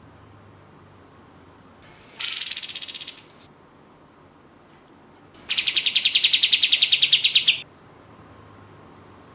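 Kapas tembak (katem) songbird singing two rapid trilled bursts, a short one about two seconds in and a longer one of about two seconds later. Each is a fast run of high, evenly repeated notes that stops abruptly.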